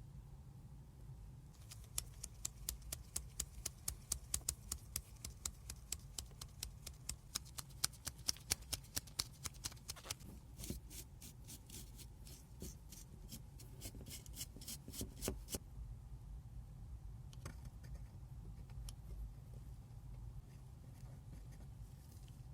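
Hand-tool work on a small model car: a quick, even run of sharp scraping clicks, about five a second, that stops about two-thirds of the way through, followed by a few scattered ticks.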